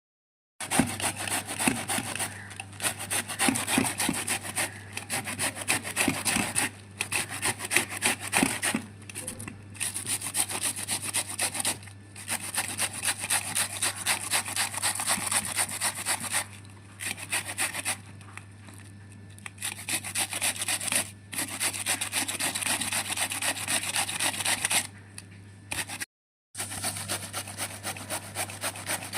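Cabbage being shredded: rapid rasping strokes in runs of several seconds with short pauses, over a low steady hum.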